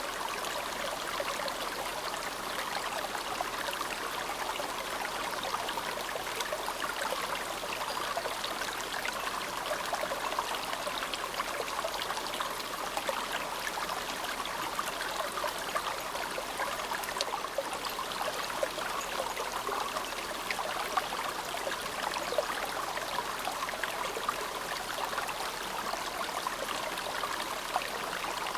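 Shallow, clear mountain river (the snow-fed Azusa River) babbling steadily, a continuous rushing with fine splashing flicker and no pauses.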